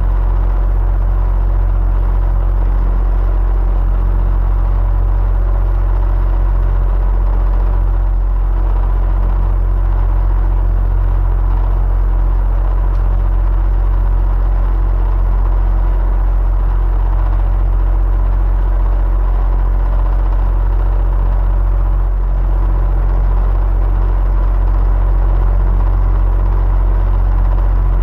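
Electric fan running steadily, a constant deep rumbling whir with a faint steady hum on top and no change in speed.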